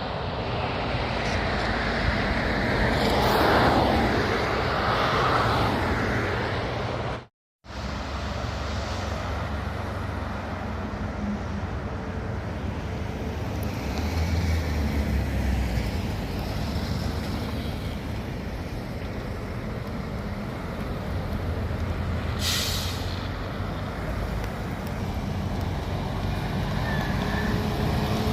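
Heavy trucks driving past on the road, their diesel engines and tyres making a continuous traffic noise that swells as one passes close a few seconds in. The sound cuts out for a moment at about seven seconds, and a short hiss comes about two-thirds of the way through.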